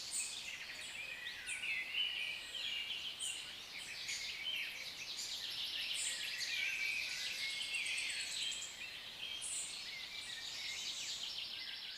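A group of African lovebirds chattering, with high rapid chirps and squeaks overlapping without a break.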